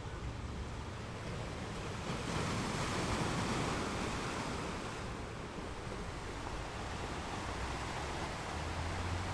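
Ocean waves washing onto a shore, one wave surging in about two seconds in and then slowly fading, over a steady low rumble of surf.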